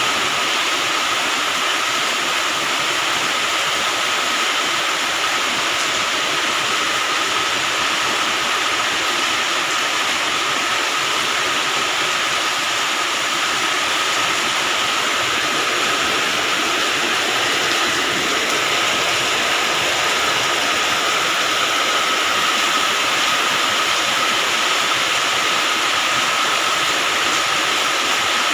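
Heavy rain pouring down in a steady downpour, an even unbroken hiss of water, with a faint steady tone running underneath.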